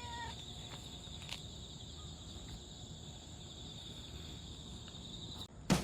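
Faint, steady high-pitched trilling of insects such as crickets, with a brief rising-and-falling call at the very start.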